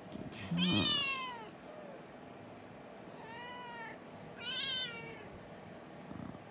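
Domestic cat meowing three times: a loud meow falling in pitch about half a second in, then two shorter, softer meows about three and four and a half seconds in.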